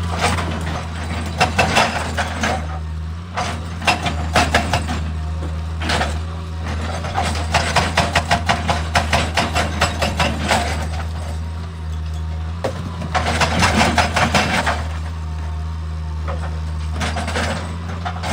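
Excavator's diesel engine running steadily, with several bursts of rapid, evenly spaced clattering knocks, about four a second, each burst lasting one to three seconds.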